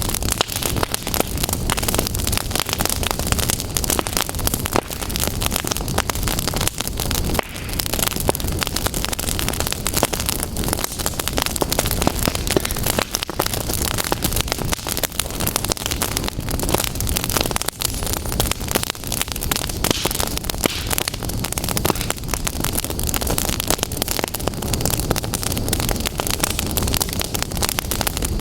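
Fire crackling and throwing sparks: a dense, unbroken stream of small pops and crackles.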